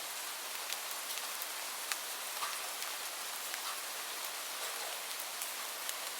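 Steady rain falling: an even hiss with individual drops ticking sharply now and then as they hit a surface.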